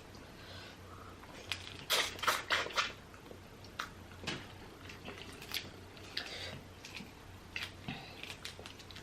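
Close-up eating sounds of a seafood boil: wet chewing, slurping and the crackle of shells being cracked and peeled, in scattered short clicks with a louder cluster about two seconds in.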